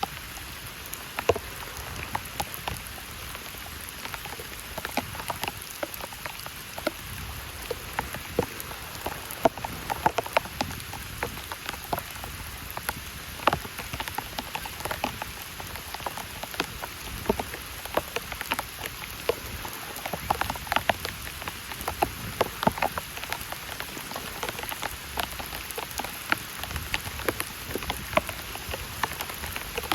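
Heavy rain falling steadily, with many loud separate drops striking a surface close by.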